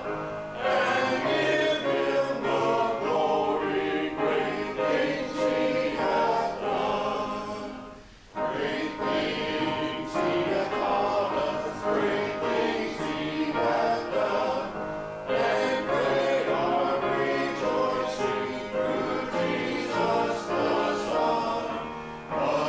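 Church congregation and choir singing a hymn with instrumental accompaniment, in phrases with brief breaks between them.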